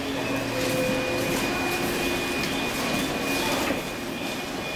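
JNR 485 series electric train moving through the station as it passes beneath the camera: a steady mechanical hum over rolling noise, with several held low tones and a thin high whine.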